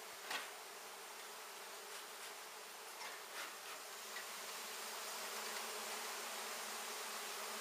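A large colony of honey bees buzzing steadily as a dense hum, with a few faint taps.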